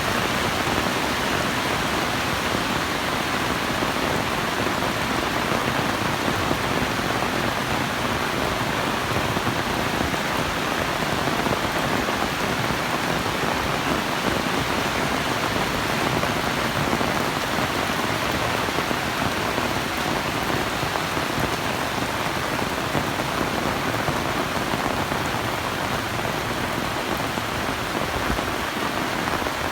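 Heavy rain falling steadily: a loud, even hiss of rain on surfaces without any break.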